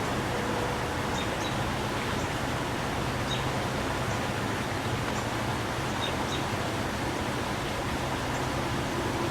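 Steady outdoor background noise, with short, high bird chirps breaking through about half a dozen times.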